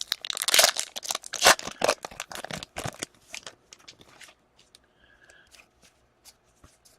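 Trading cards and their pack being handled: dense rustling and crinkling for about three seconds, then scattered light clicks as the cards are flipped through.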